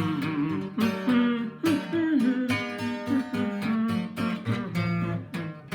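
Acoustic guitar playing the closing instrumental of a Russian romance, plucked notes and strummed chords, ending on a final chord struck near the end that is left to ring.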